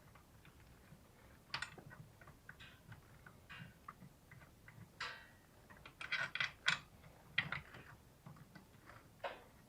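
Faint, irregular metallic clicks and clinks of bolts being threaded by hand into an engine mount bracket, with a brief cluster of quick clicks about six to seven seconds in.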